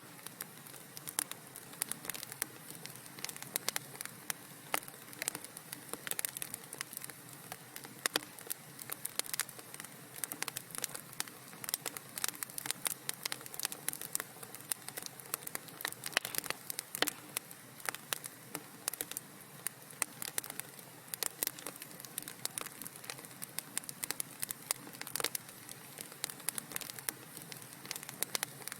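Wood fire crackling in a fireplace: a dense, irregular run of small pops and snaps over a soft steady hiss.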